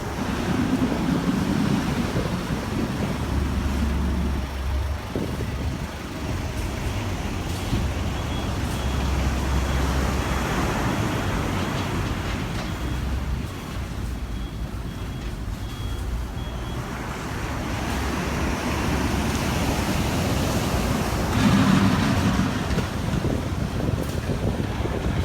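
Typhoon-force wind buffeting the microphone over the roar of surf. A low rumble and hiss swell and fade with the gusts.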